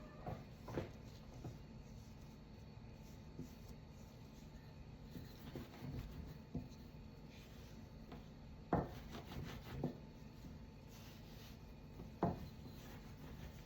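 Quiet hand work on a wooden board while making dumplings: soft rubbing and scraping, with a few light knocks standing out, the sharpest about nine and twelve seconds in.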